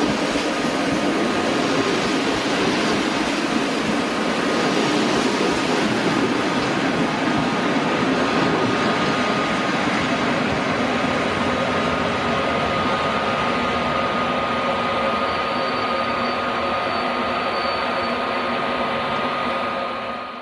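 Train at close range in the station: a steady loud rolling and running noise with a thin steady whine, and a higher whine joining for a few seconds about three-quarters of the way through.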